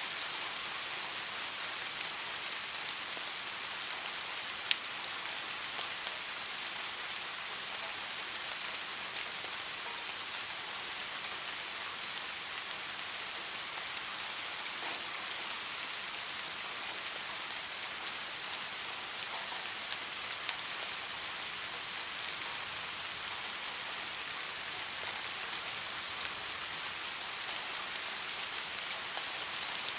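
Steady rain falling on a surface, a constant hiss with scattered individual drop ticks, one sharper drop hit about five seconds in.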